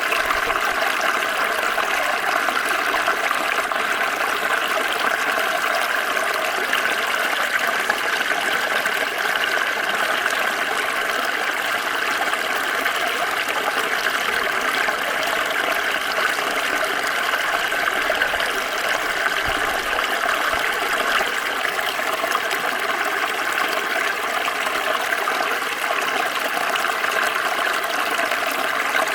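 Small stream of water flowing and splashing over stones, a steady bright rush without break.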